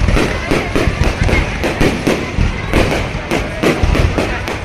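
Fireworks going off in a dense barrage: bangs and crackles overlapping several times a second, without a break.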